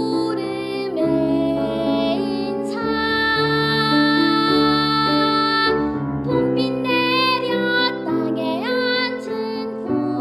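A young girl singing a Korean children's song (dongyo) over instrumental accompaniment. She holds one long note from about three seconds in and slides up to a higher note near the end.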